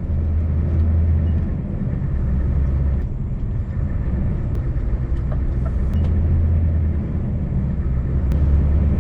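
Scania V8 truck engine running on the move: a steady low drone that swells and eases slightly.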